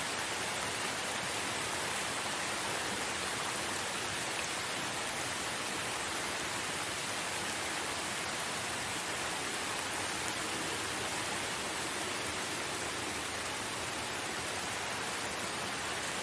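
Steady rain falling in a forest, an even, unbroken hiss of many drops with no changes or distinct impacts.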